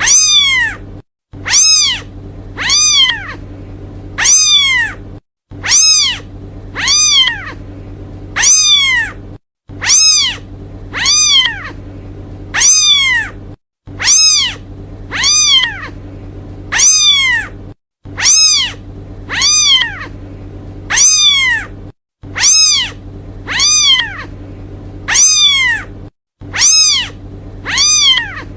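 Kitten meowing over and over to call its mother: high, evenly spaced calls about one a second, each rising and then falling in pitch. A steady low hum sits underneath.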